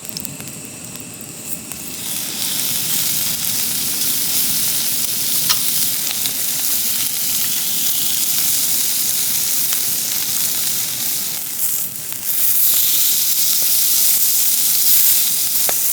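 Beef searing on a hot flat griddle pan over a camping burner, a loud, steady fat-spitting sizzle. It swells about two seconds in, dips briefly near twelve seconds, then comes back louder.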